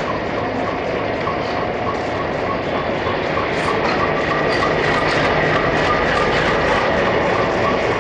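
Train running on the rails during shunting: a steady rumble with a regular ticking about four times a second, and repeated clicks from about halfway through.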